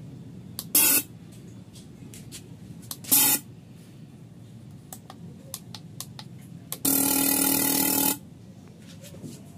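Electric vehicle horn sounding in two short toots and then one steady blast of just over a second, over a low steady hum.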